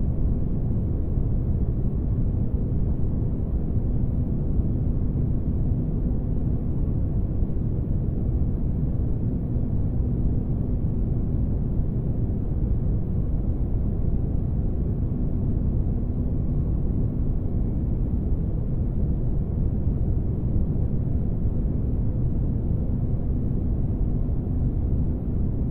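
Spaceship ambience: a steady, deep rumbling noise with a faint low hum running through it, like a starship engine heard from inside the ship.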